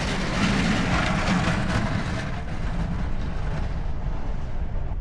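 Plow truck's engine running under a steady low rumble, with a broad rushing noise that thins out after about two seconds.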